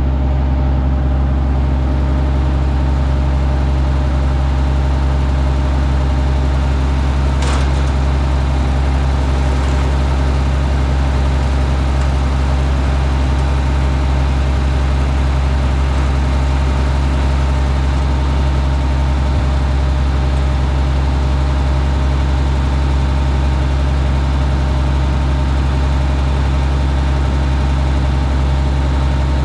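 Minneapolis Moline G900 LP tractor's six-cylinder LP-gas engine idling steadily, running smoothly again now that a bird's nest has been cleared from it. One short knock about seven seconds in.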